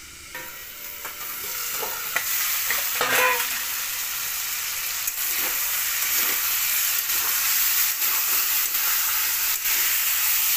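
Chicken pieces frying in oil in a karahi, sizzling steadily and growing louder over the first couple of seconds. A metal spatula stirs them, scraping and knocking against the pan now and then.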